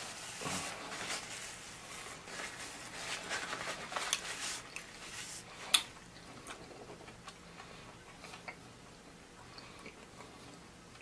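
A person chewing fried chicken wing, with wet mouth clicks and smacks, busier in the first half, and one sharp click about six seconds in.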